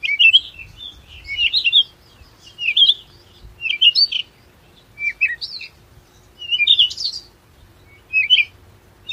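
A songbird singing: short warbling phrases, about eight of them, each under a second and coming roughly once a second.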